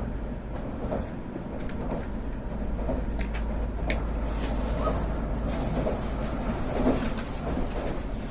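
Tokaido Shinkansen train running, heard from inside the passenger car: a steady low rumble with scattered light clicks and creaks from the carriage.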